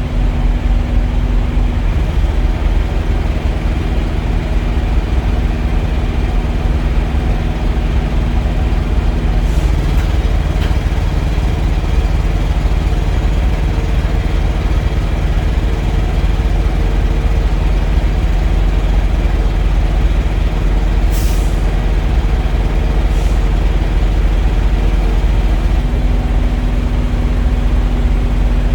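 Heavy diesel truck engine idling steadily, with two short hisses of released air about two seconds apart late on.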